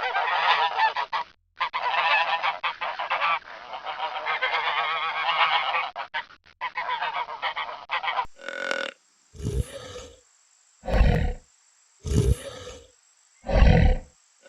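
A flock of geese honking, many calls overlapping. About eight seconds in it cuts to a series of short, deep animal calls, about one every second or so.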